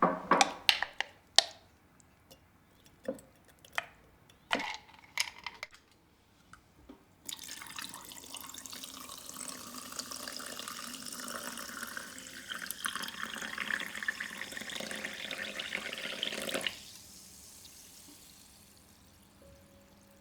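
A kitchen tap running into the sink for about nine seconds, then shut off suddenly. Before it, several sharp clatters and knocks of things being handled.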